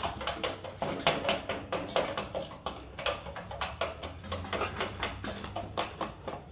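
Light Columbian Brahma chickens clucking in a quick, irregular run of short calls over a low steady hum.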